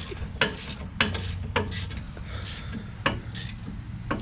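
Hand tools working on metal suspension hardware: a few sharp, irregularly spaced clicks and scrapes, the strongest about a second in, over a steady low hum.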